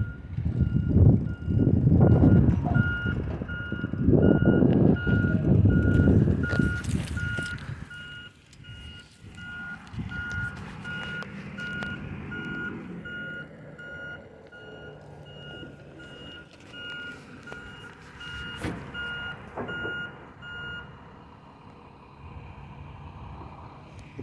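Recycling truck's back-up alarm beeping steadily in a regular series of short beeps, which stop a few seconds before the end. The truck's engine rumbles loudly at first, then falls away to a lower running sound.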